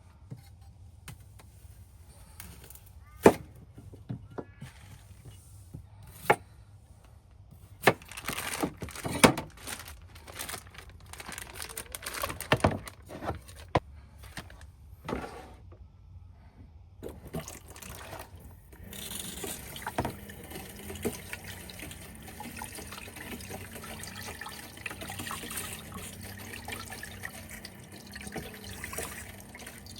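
Several sharp knocks and handling clatter, then, from about two-thirds of the way in, a steady stream of water pouring or filling a container.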